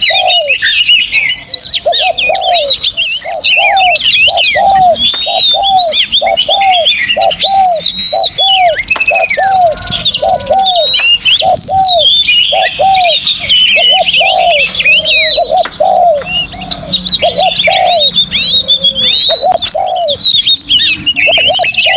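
Dense chorus of songbirds singing, with many rapid high chirps, whistles and trills overlapping. Underneath runs a low, arched note repeated about twice a second.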